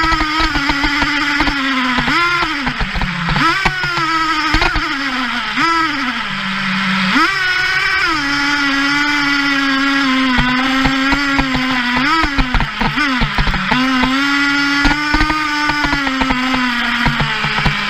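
Traxxas T-Maxx 3.3's small two-stroke nitro engine running at high revs. The high, buzzing pitch holds steady for stretches and is broken by several quick drops and rises as the throttle is let off and opened again.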